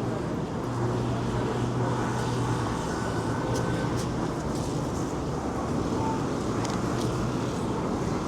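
Busy street ambience dominated by a motor vehicle running close by, a steady low rumble with a low hum strongest for a couple of seconds near the start.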